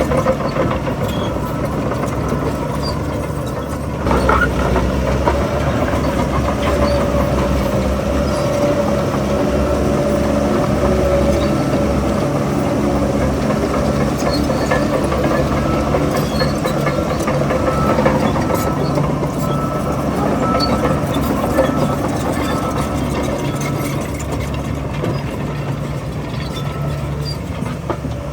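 Heavy diesel engine of a Shantui DH17 C3 crawler bulldozer running under load, getting louder about four seconds in and staying up, with faint scattered clicks and clanks over it.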